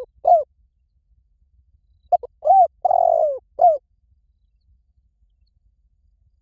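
Spotted dove cooing, a recorded call used as a lure. One phrase comes about two seconds in: a short note, a rising-then-falling coo, a long falling coo and a short last coo. A single coo closing the previous phrase sounds right at the start.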